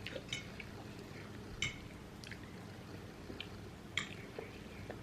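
Quiet eating sounds of pasta at a table: scattered small clicks and taps of forks on plates, the sharpest about four seconds in, with faint wet mouth sounds.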